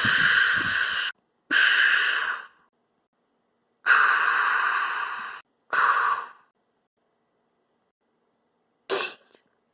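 A person making hissing "pshhh" spray noises with their mouth, imitating a fire hose putting out a fire. There are five bursts of about a second each, and the last one is short.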